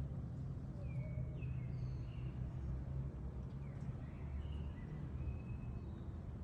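Scattered short, high chirps of small birds over a steady low hum.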